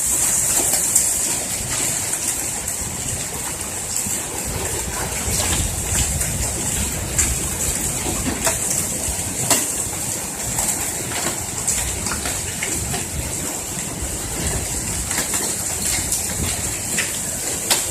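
Hail and heavy rain coming down: a steady hiss with scattered sharp ticks and cracks of hailstones striking hard surfaces.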